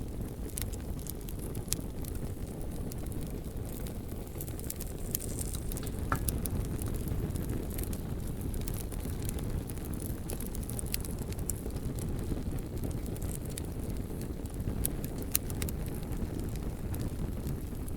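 Bonfire burning: a steady low rumble of flames with frequent sharp crackles and pops from the burning wood scattered throughout.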